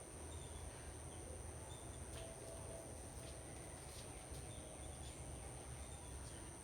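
Faint outdoor garden ambience: a steady high-pitched insect drone, with a few short faint bird chirps and a few soft clicks.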